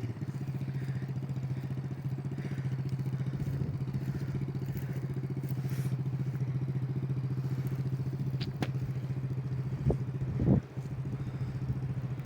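Small 50cc dirt bike engine idling at a steady pitch. A few brief knocks come late on.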